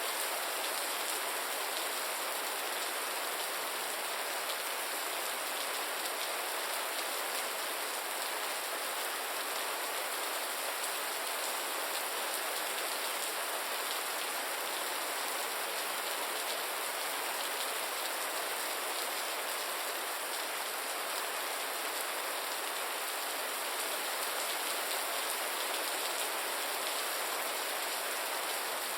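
Steady gentle rain falling on a surface: an even hiss of many fine drops that does not change.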